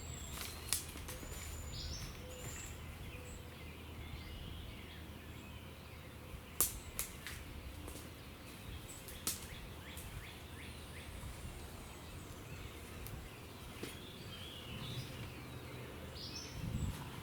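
Birds chirping over a steady low background noise, with a few sharp clicks.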